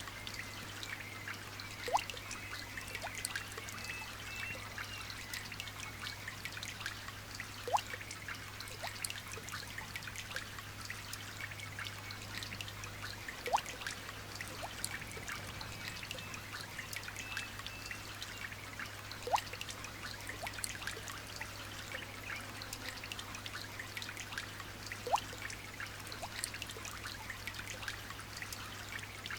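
Light rain dripping and trickling in a steady patter of small drops, with a louder single drop about every six seconds.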